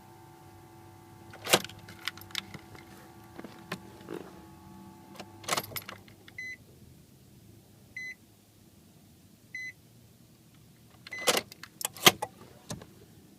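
Nissan 350Z's ABS module humming with a steady electrical tone while the engine is off, a fault that drains the battery; the hum stops about halfway through. Sharp clicks and knocks come and go, loudest near the start and near the end, and three short, high beeps sound in the middle, about a second and a half apart.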